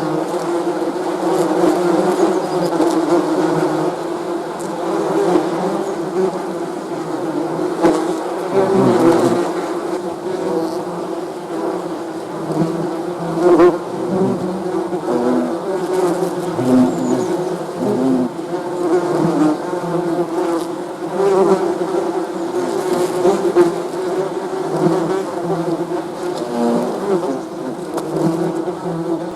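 Many honeybees buzzing together in a steady, dense hum, with individual bees' wingbeat tones shifting in and out of the drone.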